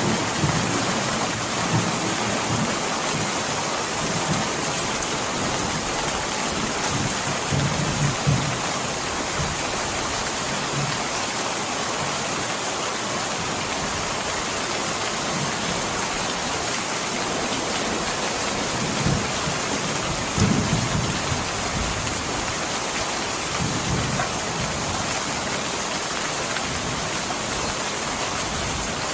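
Steady heavy rain with a few low rolls of thunder. The strongest roll comes about two-thirds of the way through.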